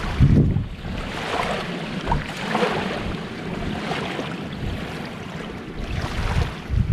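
Sea waves washing on the shore in a steady wash that swells and falls, with low gusts of wind buffeting the microphone, strongest just after the start and near the end.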